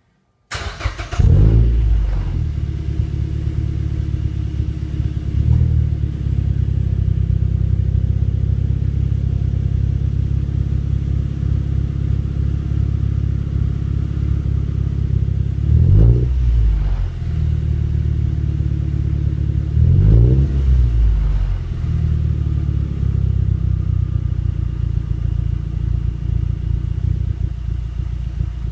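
A 2010 second-generation Mazda 6 through a Magnaflow aftermarket exhaust: the engine starts and flares up, then settles to a steady idle. It is revved briefly a few times, a small blip about five seconds in and fuller revs about 16 and 20 seconds in, each falling back to idle.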